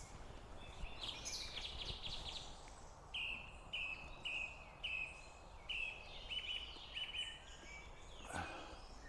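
Small songbirds singing: a brief twittering phrase, then a run of about eight short repeated notes, roughly two a second, over faint outdoor background noise. A short rustle near the end.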